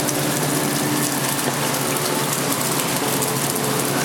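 Steady rain falling on a city street, an even wash of rain noise with a few faint held tones underneath.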